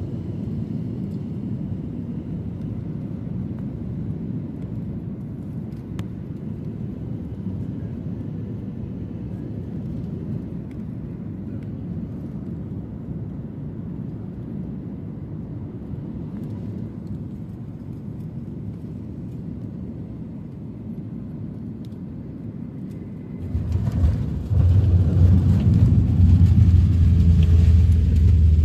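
Cabin noise of an Akasa Air Boeing 737 MAX on landing: a steady low rumble, then about 24 seconds in a sudden jump to a much louder, deeper rumble, fitting touchdown and the roll-out on the runway.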